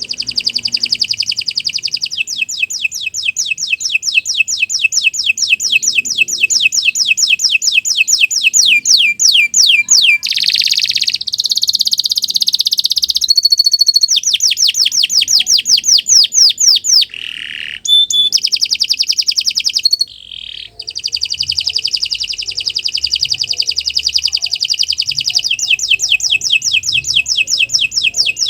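Domestic canary singing a long, continuous song: fast runs of repeated falling notes, changing phrase now and then with a few brief pauses.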